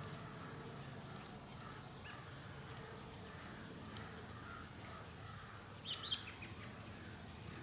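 A bird giving a short quick burst of high chirps about six seconds in, over faint steady background noise.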